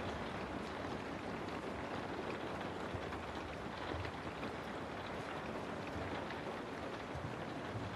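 Steady rainfall: an even hiss with scattered drop ticks and a low rumble underneath.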